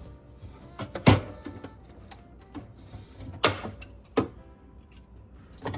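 Several sharp knocks and clacks, spaced irregularly, as a stuck kitchen part is tugged and jiggled to free it. Background music plays underneath.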